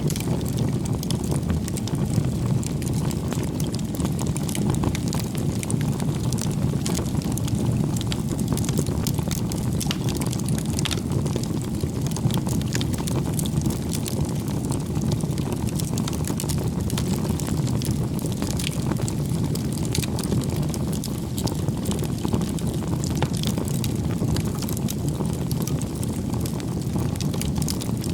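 Campfire burning: a steady low rush of flames with scattered small crackles and pops throughout.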